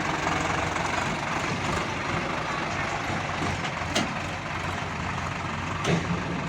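Heavy diesel engine running steadily, with two sharp knocks about four and six seconds in.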